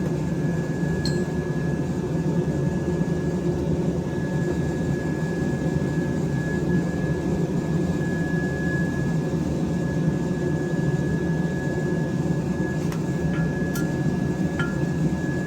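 Blacksmith's forge running: a steady low rush with a thin steady whine over it. A few light clicks near the end.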